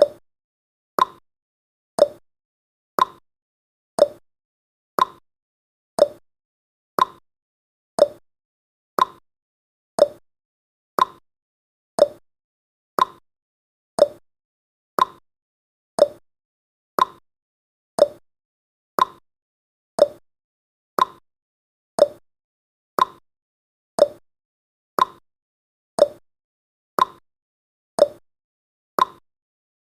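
Countdown timer's ticking sound effect: one short, sharp tick every second, evenly spaced, with silence between ticks.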